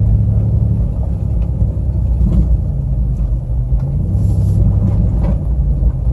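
Car engine and road rumble heard from inside the cabin while driving, a steady low drone with an even engine hum.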